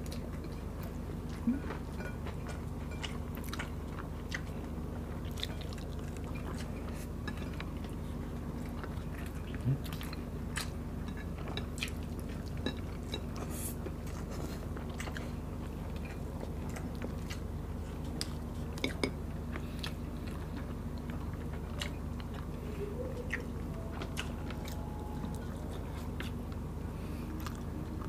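Two people chewing and eating chicken adobo and rice by hand, close to the microphone: many scattered small mouth clicks, with a few sharper knocks, over a steady low hum.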